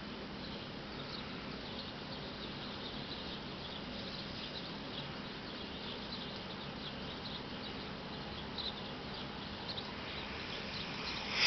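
Birds chirping faintly, many short high calls scattered over a steady background hiss.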